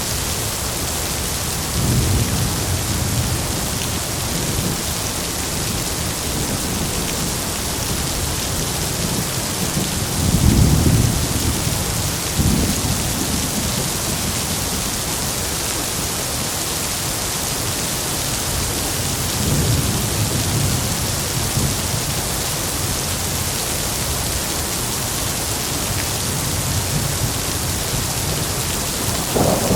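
Heavy rain falling in a steady hiss, with low rolls of thunder rumbling up several times; the loudest comes about a third of the way in.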